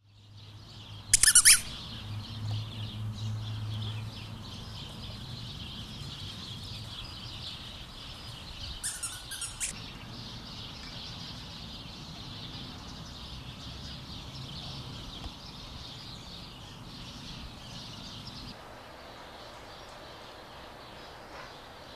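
Birds chirping steadily, cutting off near the end. A brief, loud, high-pitched sound about a second in, and a fainter short one about halfway through.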